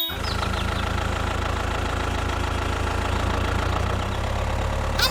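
Tractor engine idling steadily, with a fast, even knocking pulse.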